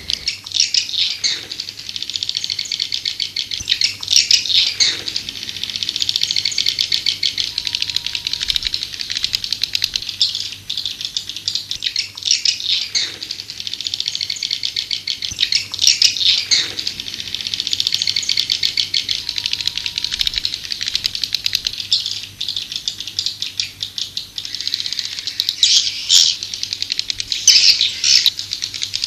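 Swiftlet lure call: a dense, fast, high-pitched twittering of chirps and rattling trills, repeated in long phrases, with a falling swoop every few seconds.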